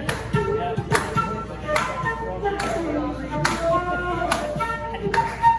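Live instrumental playing with a steady beat: sharp percussive strokes a little faster than once a second, with held, ringing pitched notes between them.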